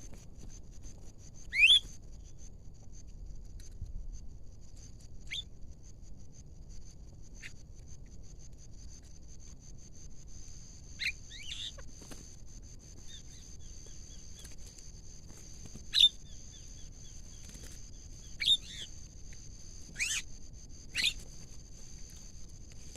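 Loud, sharp bird calls, each a quick upward-sweeping whistle, about eight of them at irregular intervals and loudest about two seconds in and near the middle. Under them runs a steady high-pitched buzz.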